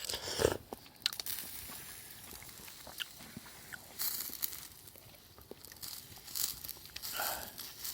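A person eating, with irregular crunching and chewing noises; the loudest bite comes about half a second in.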